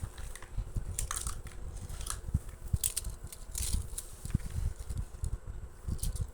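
Toy cars being handled: several short, light clicks and scrapes, spread unevenly over the seconds, over a low uneven rumble.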